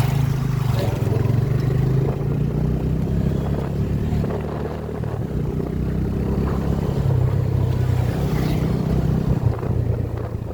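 Motorcycle engine running steadily while riding, easing off slightly about four seconds in.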